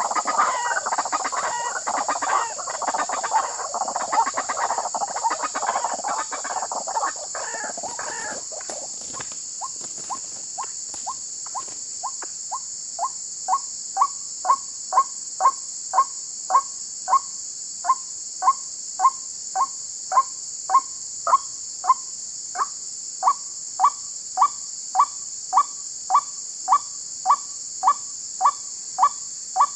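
White-breasted waterhen (ruak-ruak) calling. A harsh, jumbled croaking chorus settles about nine seconds in into a long run of single loud notes, about one and a half a second. A steady high-pitched buzz sits behind it.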